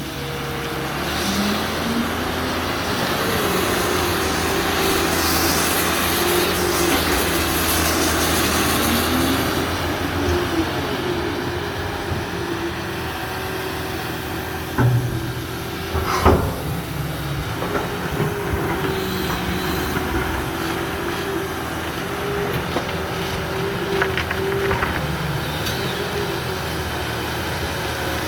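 Cat 330B excavator's diesel engine running under load, with a hydraulic whine that rises and falls as the machine works and a couple of sharp metal clanks about halfway through.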